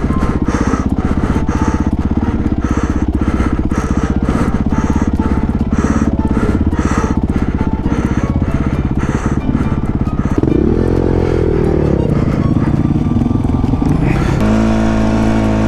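Honda CRF450's single-cylinder four-stroke engine running under load on a dirt bike. The revs swing up and down about two-thirds of the way in, then settle into a steadier, higher pitch near the end.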